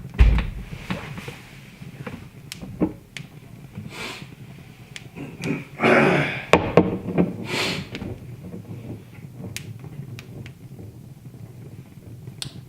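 Wood fire crackling in a fireplace, with scattered sharp pops. There is a low thump right at the start and a louder rushing noise about six seconds in.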